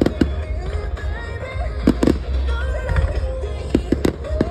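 Fireworks shells bursting in an irregular run of sharp bangs, several close together near the middle and near the end, over music playing in the background.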